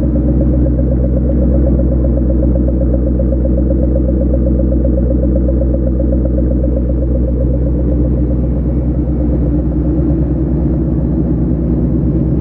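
Supercharged Ford Mustang V8 idling through its exhaust: a steady, deep, loping pulse with no revving.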